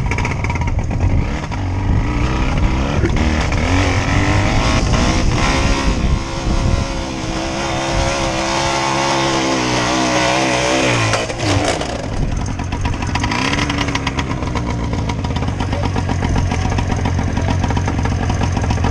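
Off-road motorcycle engine running and revving under load. Past the middle its pitch climbs steadily for a few seconds, then drops off abruptly, and the engine runs on at lower revs.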